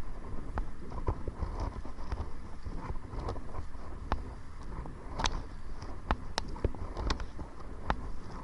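Irregular sharp knocks and slaps on a paddled kayak, one or two a second, over a steady low rumble of wind on the microphone while paddling into the wind.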